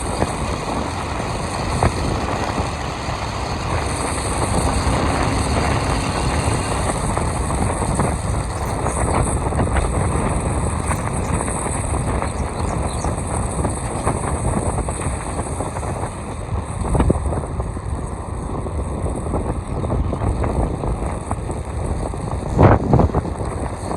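A moving vehicle, most likely a motorcycle, heard from on board: steady engine and road noise mixed with wind rush on the microphone. There is one sharp knock near the end.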